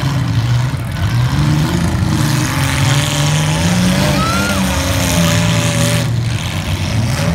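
Several modified compact demolition derby cars' engines running loudly, revving up and down as they maneuver, with a brief high squeal about four seconds in.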